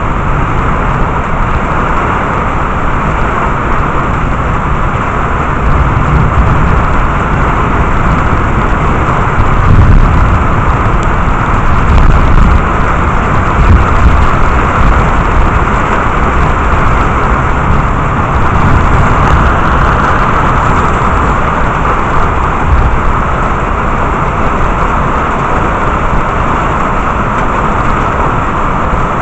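Heavy rain falling steadily in a thunderstorm, with low rumbles of thunder swelling several times around the middle.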